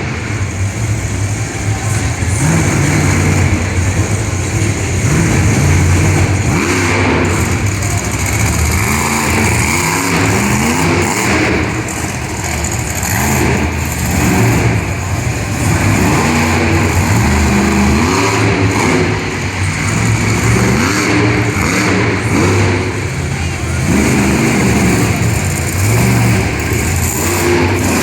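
Monster truck engine revving hard again and again, its pitch climbing and falling back every second or two.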